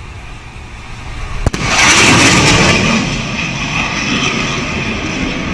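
Fast, low military jet pass: a rising rumble, a sharp crack about a second and a half in, then a loud jet roar that slowly eases.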